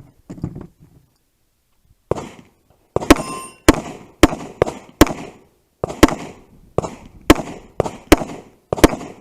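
A string of about a dozen gunshots, loud and close, one every half second to a second, starting about two seconds in. A short metallic ring follows one of the early shots.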